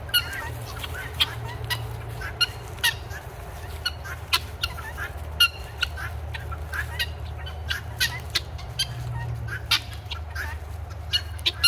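Domestic guinea fowl calling as a flock: short, sharp chirps and clicks scattered irregularly, about two a second.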